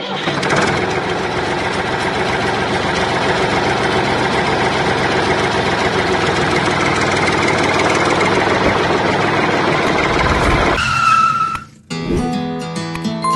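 A tractor engine running steadily under background music, cutting off suddenly about twelve seconds in; music carries on after the cut.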